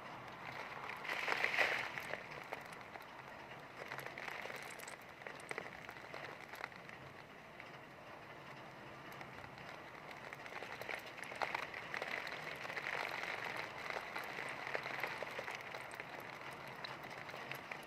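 Heavy rain with strong wind: a steady rush of rain with scattered drop ticks, swelling louder in gusts about a second in and again for several seconds past the middle.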